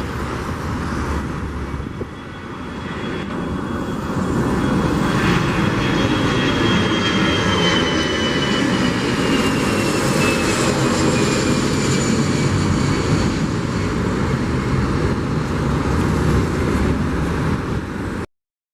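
Airliner engines running loud as the aircraft passes, a deep roar with a high whine that falls slowly in pitch. The noise swells about four seconds in and cuts off suddenly near the end.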